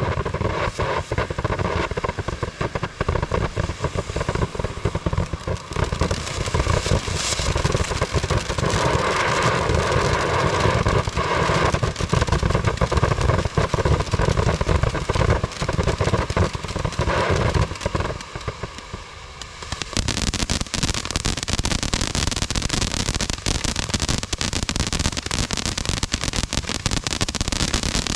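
Short Circuit ground fountain firework burning: a steady rushing spray full of dense crackling. About 18 seconds in it dips briefly, then goes on with a brighter, harsher crackle.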